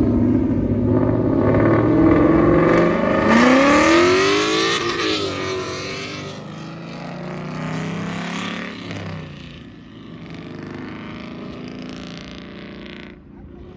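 A loud performance car engine revving and accelerating hard, its pitch climbing sharply about three to five seconds in, then fading as the car pulls away.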